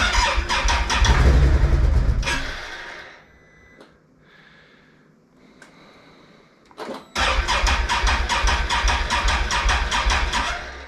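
2021 Can-Am Outlander 850 XMR ATV's Rotax V-twin being cranked on its electric starter in two attempts of about three seconds each, a few seconds apart, without catching. It will not start because the fuel tank has run dry.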